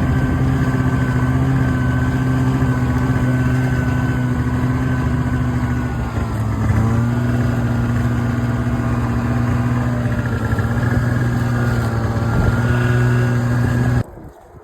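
A small motor vehicle's engine running steadily, with a brief dip and recovery in pitch about six seconds in. It stops abruptly near the end.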